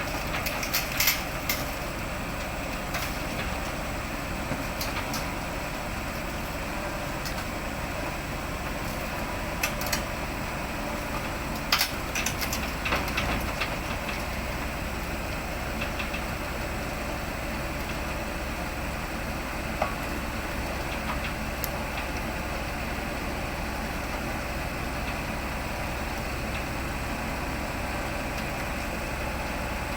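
Heavy equipment's engine idling steadily, with several short knocks or clicks, most of them in the first half.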